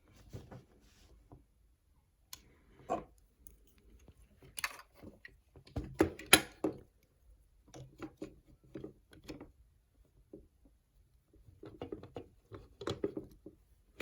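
Hands handling plastic toy packaging and parts: irregular rustles and sharp plastic clicks in bursts, busiest about halfway through and again near the end.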